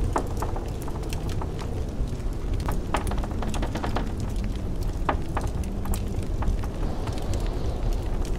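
Wood fire in a fireplace crackling, with irregular sharp pops and snaps several times a second, over a steady low rumble of blizzard wind.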